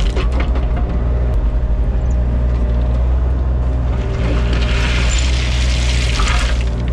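Excavator's diesel engine running steadily, with a hissing rush laid over it from about four seconds in until near the end.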